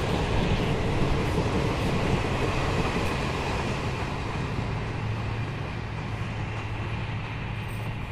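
Passenger train rolling past on the track, a steady rumble that slowly fades as the coaches move away.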